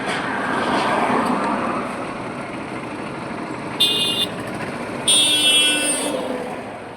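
Highway traffic with vehicles passing and a steady rush of tyre and engine noise that swells about a second in. A short horn toot comes about four seconds in, and a longer horn blast follows about a second later.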